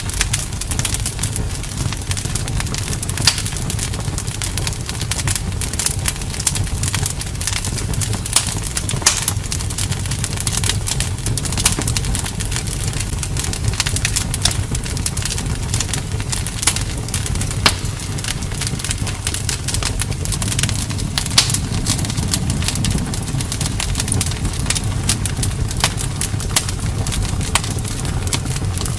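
Wood campfire crackling: many sharp snaps and pops over a low, steady rumble of the flames.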